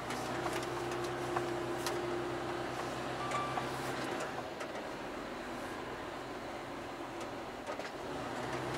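Semi-truck heard from inside the cab while manoeuvring slowly: the engine hums steadily and the hum drops away about four seconds in, then returns near the end. Light clicks and creaks are scattered throughout.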